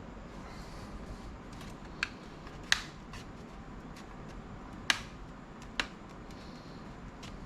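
A handful of sharp, separate plastic clicks from a laptop's case and keyboard parts being pried and worked apart by hand: four distinct snaps and a fainter one, spread over a few seconds.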